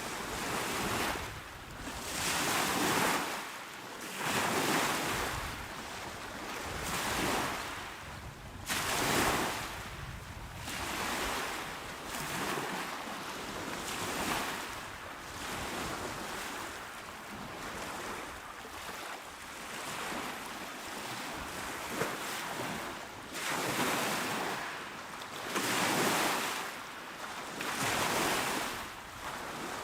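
Small ocean waves washing onto the shore in a steady series of rushing swells, one about every two seconds, calmer through the middle stretch.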